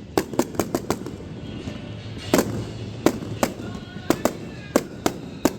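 Fireworks show: a rapid, irregular string of about a dozen sharp bangs from shells bursting close by, each with a short echoing tail.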